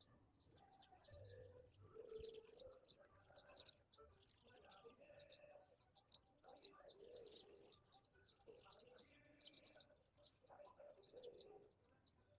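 Several birds chirping and calling, faint, with many short high chirps throughout and some lower, longer calls among them.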